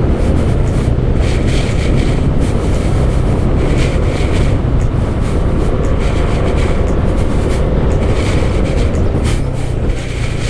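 Motorcycle riding at speed: steady engine and road rumble with wind buffeting the microphone.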